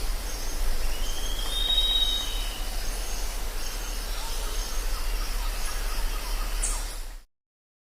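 Jungle ambience: a steady hiss of insects with scattered high bird chirps, and one clear whistled bird call lasting about a second and a half, starting about a second in. The sound cuts off abruptly near the end.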